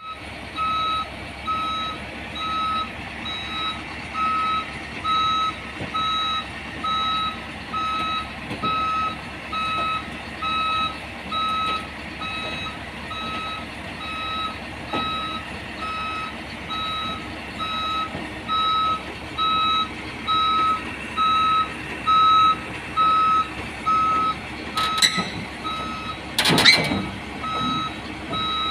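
Truck reversing alarm beeping steadily about once a second over the running engine, with a couple of sharp clanks near the end.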